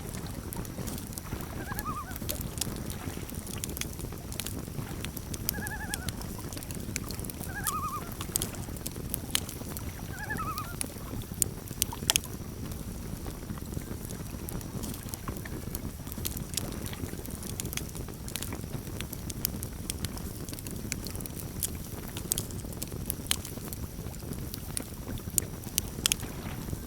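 Campfire crackling and popping, sharp snaps scattered over a steady low rumble, the loudest about twelve seconds in and near the end. In the first ten seconds or so, four short quavering calls of a common loon (tremolo calls) sound across the water.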